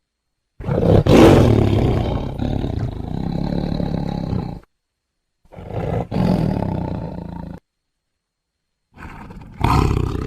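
Tiger growling in three long, rough calls separated by silent gaps. The first lasts about four seconds and is loudest at its start, the second about two seconds, and the third begins near the end.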